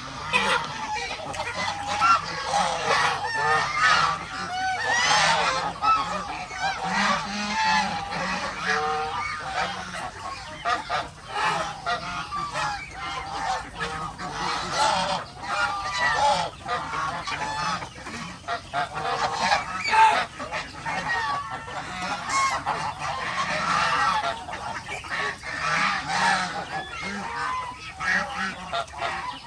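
A flock of geese honking and calling over one another without a break.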